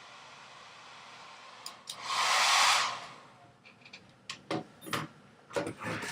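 Steady faint hiss, then a loud rush of noise lasting about a second, followed by a few short knocks and clicks.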